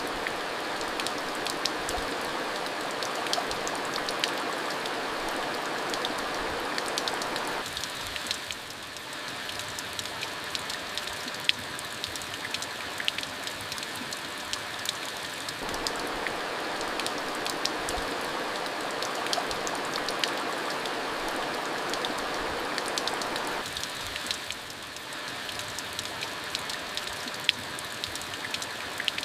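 Steady rain falling, an even hiss with many sharp ticks of single drops striking, dipping briefly in level twice.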